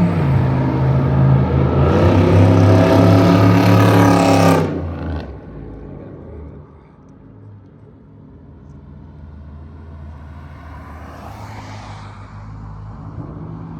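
Cammed 2008 Impala SS's 5.3-litre LS4 V8 through a full 3-inch straight-pipe exhaust, running loud under throttle and getting louder about two seconds in. About four and a half seconds in it drops off sharply to a much quieter low rumble.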